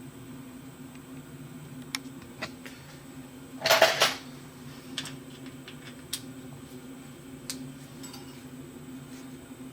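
Copper coolant tubes being handled and bent by hand: scattered small metal clicks and clinks, with one louder half-second rattle a little under four seconds in, over a steady low hum.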